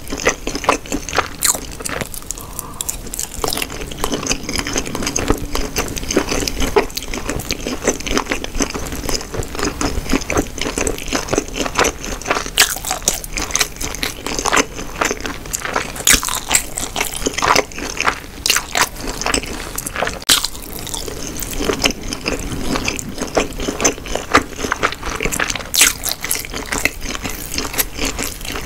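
Close-miked chewing of Korean sundae (blood sausage): a steady run of small wet clicks and smacks from the mouth.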